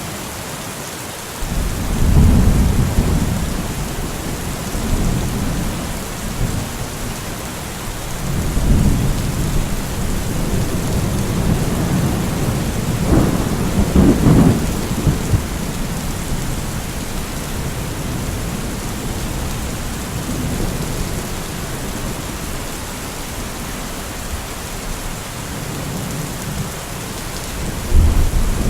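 Steady heavy rain falling, with repeated low rolls of thunder rumbling in and fading away; the loudest, crackling peal comes about halfway through, and another begins near the end.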